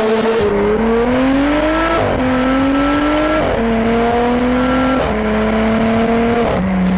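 Audi S4 B9 with a Quicksilver exhaust accelerating hard through the gears. The exhaust note climbs with the revs and drops sharply at each of about four upshifts.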